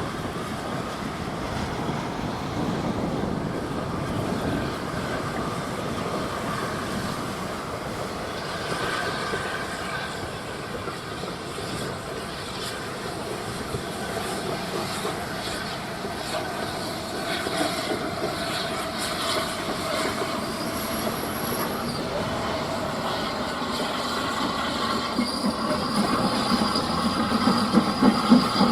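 A steam-hauled train running on the track, with wheel squeal and clickety-clack from the rail joints. A rhythmic pulsing beat grows louder near the end.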